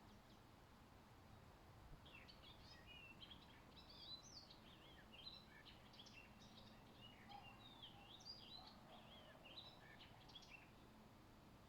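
A songbird singing one long, rapid, varied warbling phrase of quick high notes, starting about two seconds in and stopping near the end, faint over a low background hiss.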